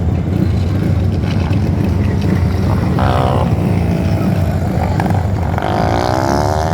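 Several 500cc single-cylinder speedway motorbikes racing, their engines running hard in a loud, steady din. A single bike's engine note stands out as it passes about three seconds in and again near the end, dipping and rising in pitch.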